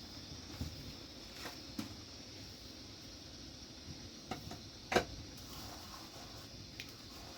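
A few scattered light knocks and clicks, the sharpest about five seconds in, over a steady low hiss.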